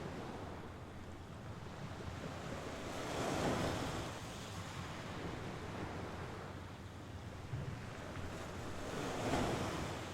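Mediterranean sea waves breaking and washing onto the shore, two waves swelling up and falling back about six seconds apart over a steady wash.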